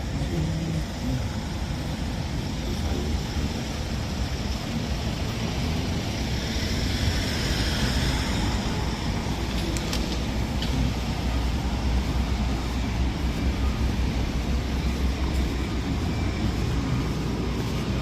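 Heavy asphalt paving machinery running steadily with a low engine rumble, with a swell of hiss around the middle.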